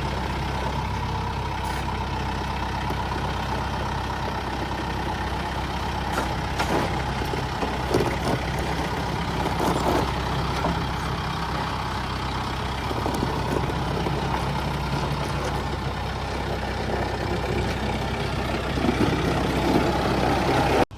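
Tractor engine running steadily, with a few short knocks partway through and getting a little louder near the end.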